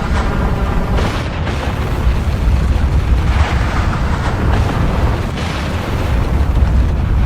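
Volcanic eruption: a continuous deep rumble with rushing surges of noise every second or two.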